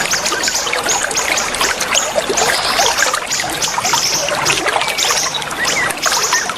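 Water trickling steadily under a dense chorus of many small birds chirping, with short slurred notes and rapid high trills repeating throughout.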